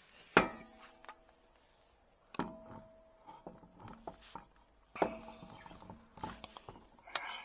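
Three sharp metallic clanks, each ringing briefly, with lighter clicks and rattles between: metal tools or parts being handled and knocked together during car work.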